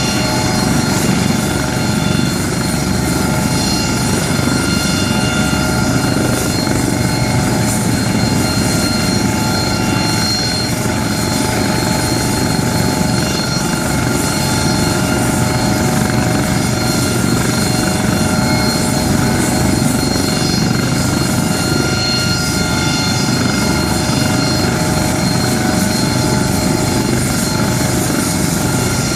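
Aircraft engine running steadily, a loud constant drone with several steady whining tones over it.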